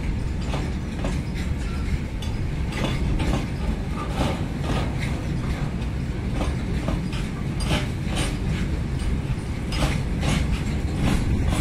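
Loaded BRN flat wagons of a freight train rolling past: a steady low rumble of wheels on rail, with frequent irregular sharp clicks and clanks from wheels crossing rail joints.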